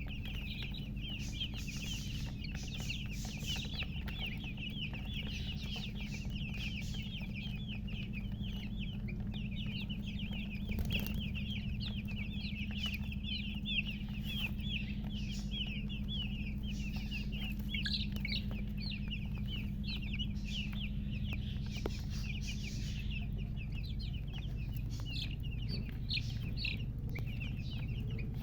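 A flock of newly hatched chicks peeping nonstop, many short high chirps overlapping, over a steady low hum.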